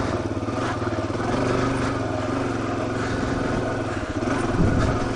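Suzuki dirt bike engine running steadily at low speed, its note rising briefly about four and a half seconds in, with a few light clacks over the rocky trail.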